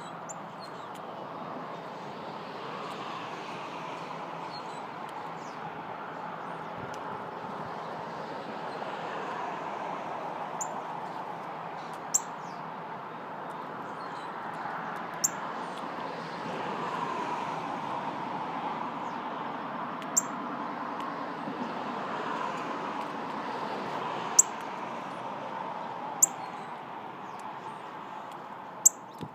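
Wild birds giving short, sharp, high chirps every few seconds over a steady background of noise.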